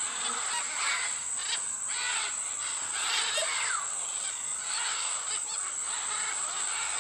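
Birds calling over one another in harsh, noisy calls, with a few short falling chirps.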